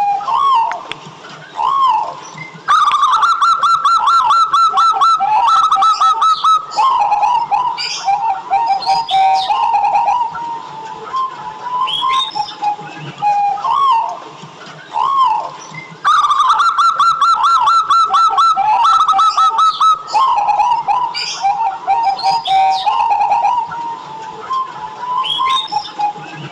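Zebra doves (perkutut) cooing in repeated song phrases of quick rising-and-falling notes, with a long fast run of notes about three seconds in and again about sixteen seconds in.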